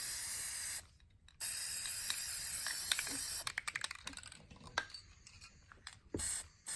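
Aerosol spray-paint can hissing in two long bursts of a couple of seconds each, followed by a run of quick clicks and two short spurts near the end.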